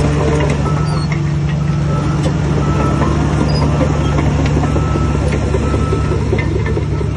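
Shantui bulldozer's heavy diesel engine running steadily under load, with scattered metallic clanks and clicks.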